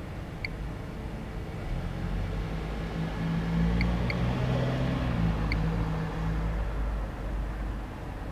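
Geiger counter giving short, high beeps at irregular intervals, four in all, as it registers counts at near-background levels. Under them a low rumble swells in the middle and fades, like a vehicle passing.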